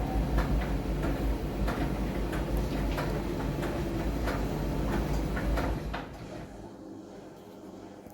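Miele front-loading laundry drum turning a load of bath towels: a low motor hum with repeated irregular knocks as the load tumbles, winding down and stopping about six seconds in.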